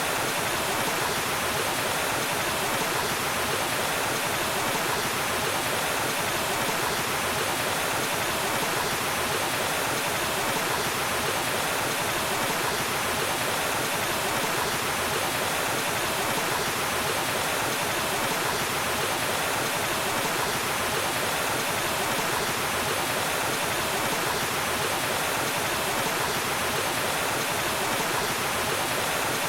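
Waterfall: water falling and rushing in a steady, even roar of white noise with no breaks.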